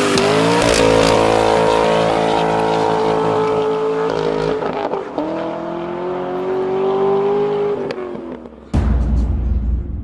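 A car engine revving hard and held at high rpm: its pitch climbs in the first second, holds, drops and climbs again about five seconds in, then fades. Near the end a deep boom with a low rumble takes over.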